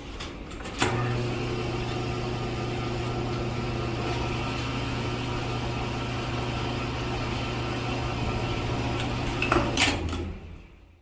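A small electric motor running with a steady hum. It is switched on with a click about a second in and switched off with a click near the end.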